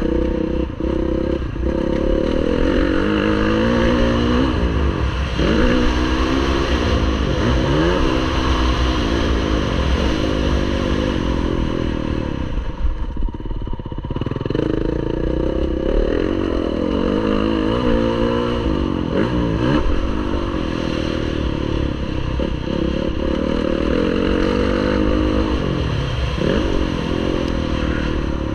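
Motocross bike engine running at racing pace, its pitch climbing and falling again and again as the throttle is worked and the gears change. It drops away briefly about halfway through as the throttle is closed, then climbs again.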